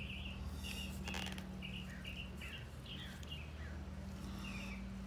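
A small songbird chirping over and over, short high chirps in quick clusters, over a steady low hum. A brief rustle about a second in.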